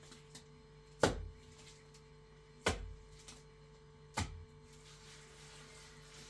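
Three heavy blows of a hand tool striking wood, spaced about a second and a half apart, each a sharp knock with a low thud, over a faint steady hum.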